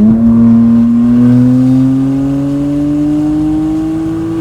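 BMW N54 twin-turbo 3.0-litre straight-six, straight-piped from the turbos back with only catless downpipes, pulling under acceleration through one gear, its loud exhaust note rising steadily in pitch as the revs climb.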